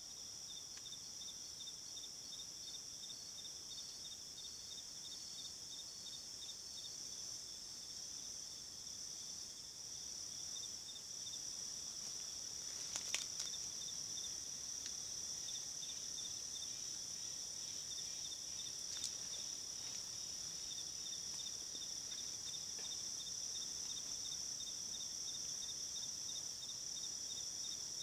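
Insects calling: a steady high-pitched drone with a rapidly pulsing, cricket-like chirp running beneath it. Two brief sharp clicks come about halfway through and again a little later.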